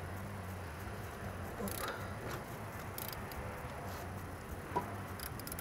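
A wrench working on the brake caliper bolts: a few faint clicks and short scraping noises, with a sharper click near the end, over a steady low hum.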